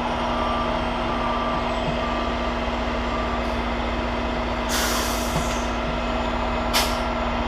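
Heavy truck's diesel engine idling steadily, with a loud hiss of released air about five seconds in and a second, shorter hiss near the end, typical of a truck's air brakes. Faint reversing beeps sound in the first few seconds.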